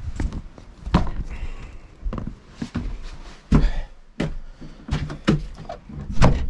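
A string of irregular knocks and thumps, the loudest about halfway through and again near the end, like a door and things being handled in a small room.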